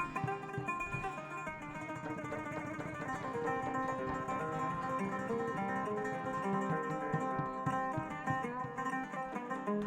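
Live band playing an instrumental passage of a traditional Malay zapin tune: a plucked string melody over regular low drum strikes.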